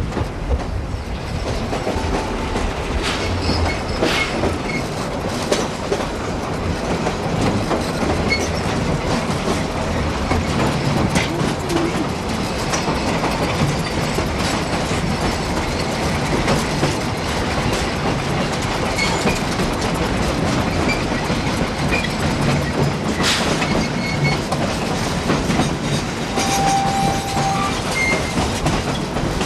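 Narrow-gauge passenger train rolling along, heard from on board: a steady running rumble with the wheels clicking over the rail joints. A short high tone comes near the end.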